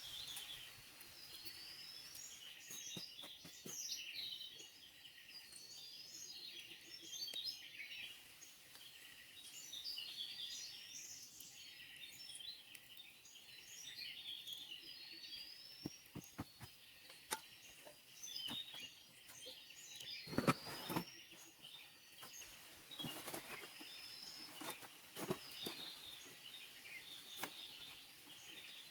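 Rainforest ambience: birds calling over a dense, steady high chorus, with short rising whistled notes repeated every few seconds. A few scattered knocks cut through, the loudest about twenty seconds in.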